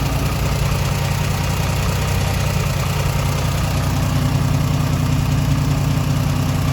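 A 1958 Mack B-21 fire truck's 1091 cubic inch Hall-Scott engine idling steadily after 30 years of sitting.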